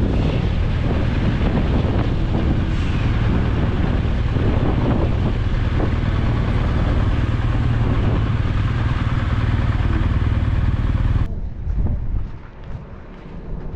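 BMW R1200GS Adventure motorcycle running at road speed: a steady engine drone under heavy wind rush on the microphone. About eleven seconds in it cuts off abruptly to a quieter, thinner sound.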